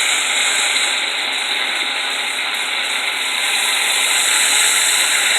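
Flour-coated chicken drumsticks frying in hot oil, a steady sizzle and crackle.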